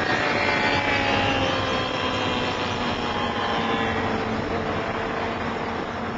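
Car engine and road noise heard from inside the cabin at speed, the engine's pitch falling slowly over the first four seconds as the revs come down, then holding steadier.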